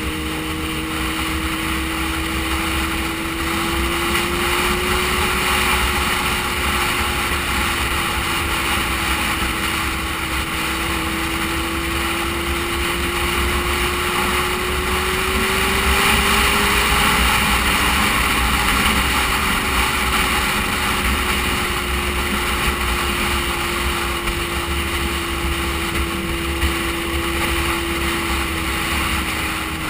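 Sport motorcycle engine running at a steady cruise, its note rising gently twice, highest about halfway through, then easing back, with wind rushing over the microphone.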